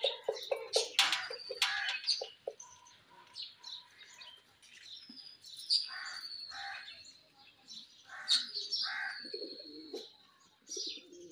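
Birds chirping and whistling, with thin high whistled notes throughout and short lower calls twice, about six and about eight to nine seconds in. A few sharp knocks near the start.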